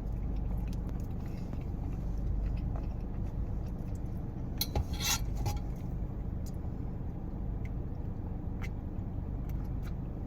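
Faint eating sounds from someone chewing a cookie, small scattered clicks and mouth noises, with a brief crinkly rustle about five seconds in, over a steady low rumble.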